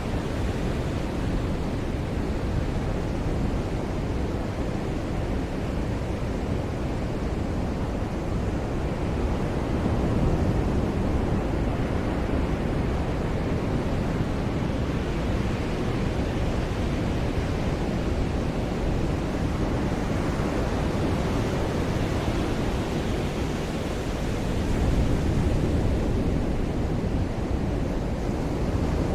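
Ocean surf washing onto a beach: a steady rushing wash that swells slightly about ten seconds in and again near the end as waves break.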